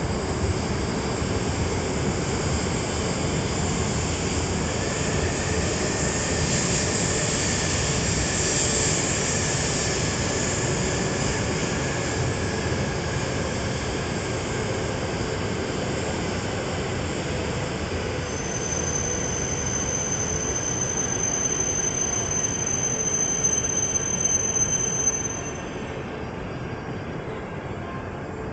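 E5-series Shinkansen train pulling slowly into a station platform, with a steady rumble of rolling and running noise. A high, steady brake squeal sets in about two-thirds of the way through. The noise drops suddenly a few seconds before the end as the train comes to a stop.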